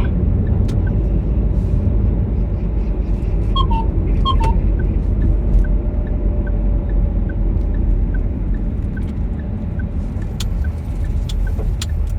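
Car cabin road and engine rumble while driving, with a turn signal ticking steadily about two to three times a second from a couple of seconds in, as the car makes a right turn. A couple of short chirping beeps come a few seconds in.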